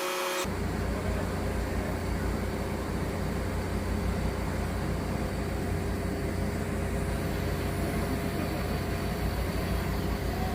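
Diesel engine of a rotating telehandler running steadily with a low rumble, starting abruptly about half a second in.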